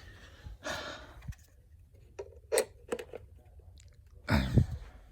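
Handling noises: rustling and a few sharp clicks, then a louder thump and rustle near the end, as the animatronic's plug and cord are handled to plug it in.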